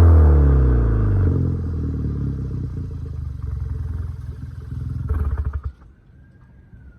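The 2015 Hyundai Veloster Turbo's 1.6-litre turbocharged four-cylinder runs through an exhaust with the resonator and muffler deleted. Its revs fall back from a rev and settle to a rough, uneven idle, with a short blip about five seconds in. Then the engine sound drops away abruptly.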